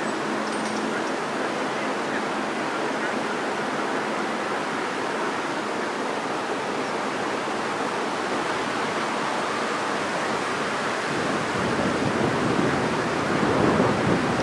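Steady rushing noise of wind on the microphone. About 11 seconds in, a deeper rumble of wind buffeting joins in and grows louder.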